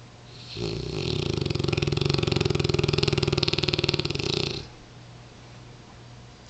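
A sleeping Mastiff dog gives one long snore of about four seconds, starting about half a second in, with a fast fluttering vibration throughout.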